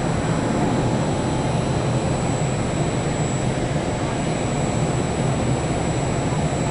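Vivalto double-deck regional train running along the track, heard from on board: a steady rolling rumble and running noise with a thin, steady high whistle above it.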